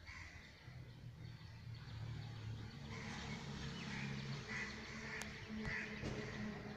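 A bird calling outdoors in short repeated notes, about two a second, starting about three seconds in, over a faint low hum.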